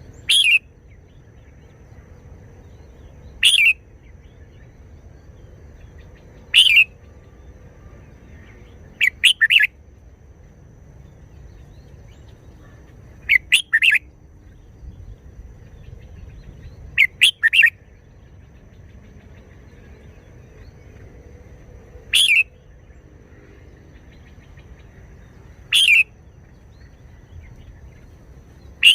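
Red-whiskered bulbul singing short, loud phrases every three to four seconds, some a single note and some two or three quick notes.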